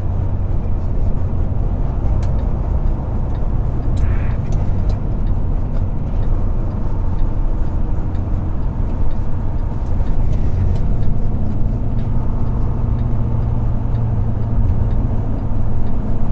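Semi truck's diesel engine and road noise heard from inside the cab while driving: a steady low rumble, with the engine note rising a little in the last few seconds.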